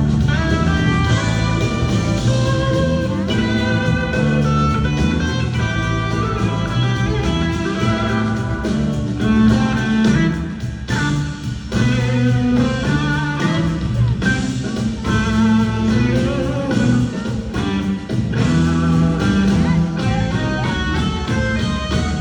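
Live rock band playing an instrumental jam, with electric guitar carrying a wavering lead melody over bass and drums. The band drops back briefly about halfway through.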